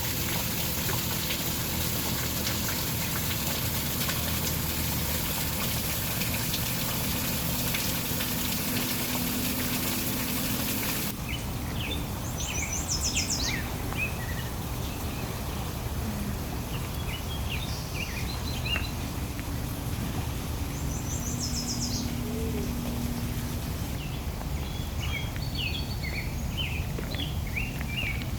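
Rushing water with a steady hiss for about the first eleven seconds. It cuts off suddenly into birds chirping and trilling over a steady background of outdoor noise.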